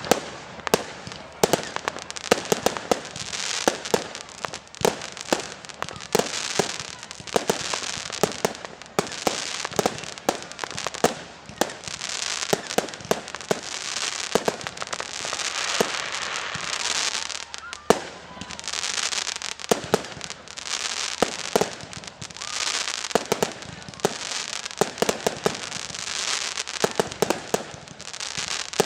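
Fireworks display: a rapid run of bangs and pops over a hissing crackle that swells and fades every few seconds.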